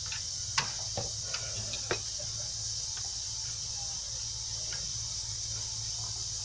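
Sharp metallic clicks and taps of a screwdriver working a new brake-shoe retaining clip into its hole, a cluster of them in the first two seconds with the loudest about half a second in, then a few scattered clicks.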